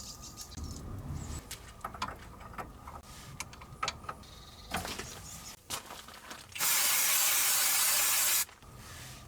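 Light clicks and knocks of work on the brake pipes, then, about six and a half seconds in, a steady hiss of pressurised spray lasting about two seconds before cutting off.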